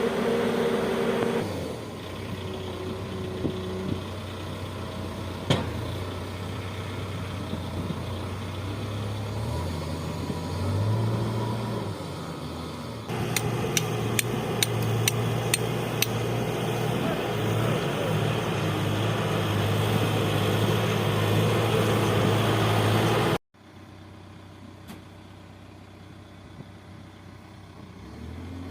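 Heavy diesel construction machine engine running, its low hum changing pitch as the load or throttle varies. A quick series of sharp metallic clicks comes about halfway through. Near the end the sound drops suddenly to a quieter, steadier engine hum.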